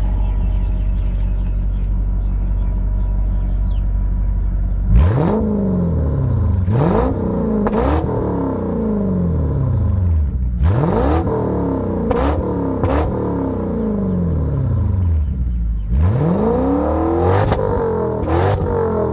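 Toyota 1UZ-FE 4.0-litre V8 exhaust idling steadily, then from about five seconds in revved in a series of quick throttle blips, each rising sharply in pitch and falling back toward idle.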